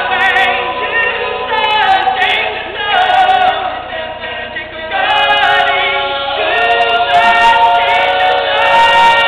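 A cappella vocal group singing in close harmony, several voices moving together and holding sustained chords near the end.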